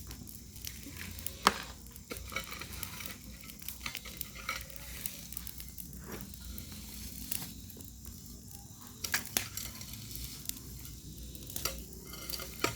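Campfire crackling: irregular sharp pops over a steady hiss, the loudest pop about a second and a half in.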